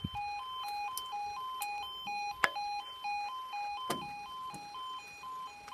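UK level crossing warning alarm sounding: a two-tone electronic yelp that switches between a lower and a higher note about twice a second, the signal that the barriers are about to lower for an approaching train. A few sharp clicks break in, one about two and a half seconds in and another near four seconds.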